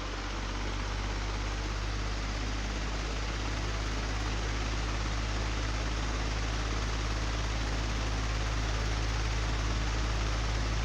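An old, broken electric fan running: a steady rush of air over a strong, constant low hum.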